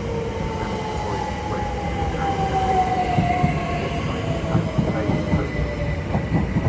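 Class 375 Electrostar electric multiple unit pulling into the platform, a whine falling in pitch as it slows, with the wheels knocking over the rail joints and growing louder as it draws near.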